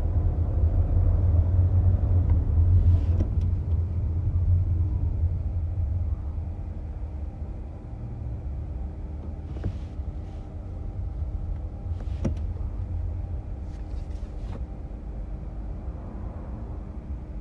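Cabin rumble of a 2018 Honda Accord Hybrid being driven, picked up from the floor under the driver's seat: a steady low road and drivetrain rumble that eases after about six seconds, with a few small clicks.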